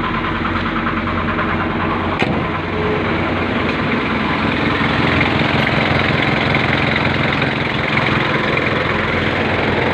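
Ford diesel engine idling steadily just after starting. The hard starting is cured by replacing a faulty glow plug. A single sharp click sounds about two seconds in.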